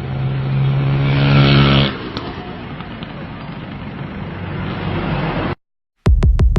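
Outdoor traffic noise with a motor vehicle's engine hum growing louder and then cutting off about two seconds in. The sound drops out near the end, and an electronic drum-machine beat starts.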